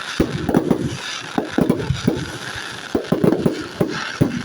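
Aerial fireworks bursting in rapid succession: a dense, irregular run of bangs and pops.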